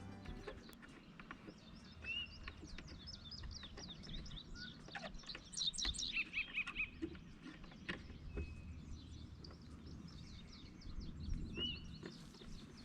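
Songbirds chirping and calling in a busy chorus of short, high chirps that grows thickest about halfway through, with a couple of clearer whistled notes, over a faint low rumble.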